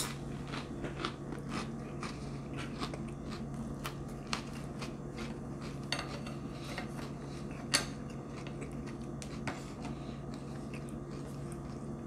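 Close-up chewing of a crunchy mouthful of cracker topped with sardine, raw onion and cracked peppercorns: irregular crisp crunches, the loudest about two-thirds of the way through, over a steady low hum.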